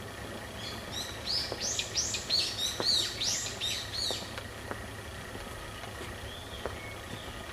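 A songbird singing a rapid, loud run of high, quick falling notes for about three and a half seconds, starting about half a second in, with a couple of faint calls near the end. A steady low rumble runs underneath.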